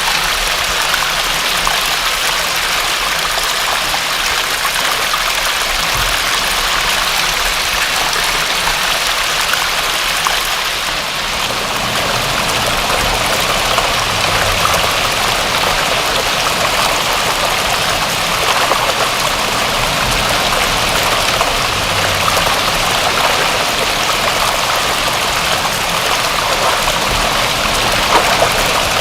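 Steady rain, an even, dense hiss of falling water.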